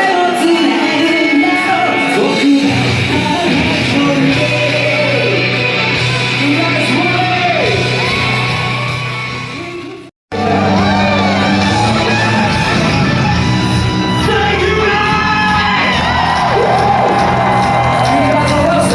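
Loud live music in a large hall: a band plays while a singer sings and the crowd yells and whoops. About ten seconds in, the sound fades and drops out for a moment, then comes back.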